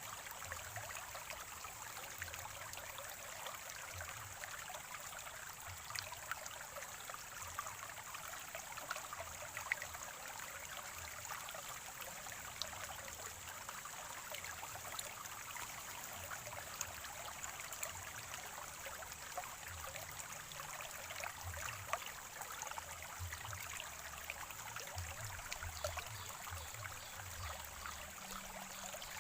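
Water of a small spring-fed stream trickling and gurgling steadily, with many small splashes and crackles.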